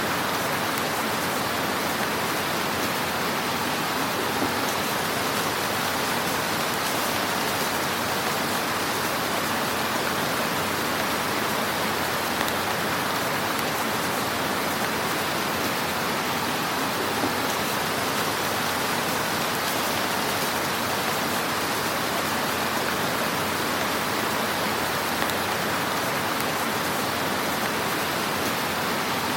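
Wood fire in a fireplace burning with a steady, dense crackle, a soft hiss flecked with small pops and a few slightly louder snaps.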